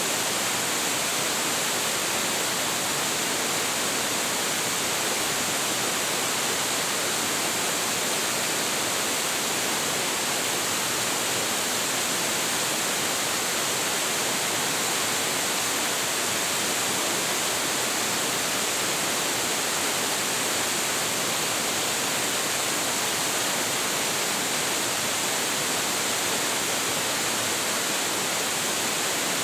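Waterfall: a large volume of water falling and crashing into its pool, a steady dense rush with no change.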